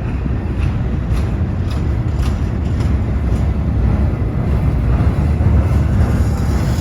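Freight train rolling past with a steady low rumble, its wheels clicking over the rail joints about twice a second, with wind on the microphone.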